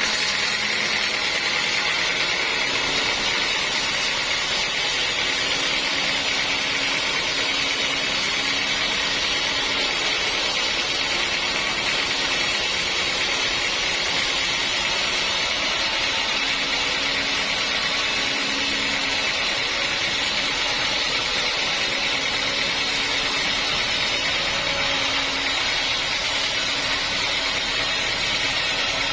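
Sawmill saw running with a steady, unchanging machine noise.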